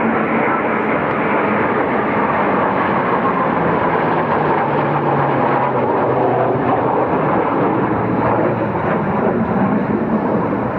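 Military jet aircraft flying past overhead, a loud, steady jet noise with a slight fall in pitch partway through.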